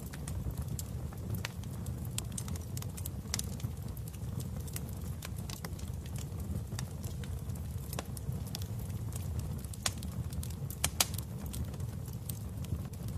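Fire in a fireplace crackling: a steady low rumble of the flames with irregular sharp pops, and a couple of louder snaps late on.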